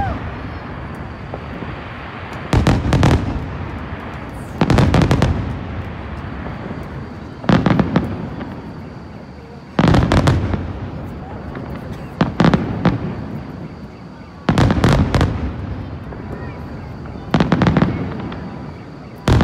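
Fireworks display: volleys of aerial shells bursting about every two to three seconds, each volley a quick run of sharp bangs that dies away before the next.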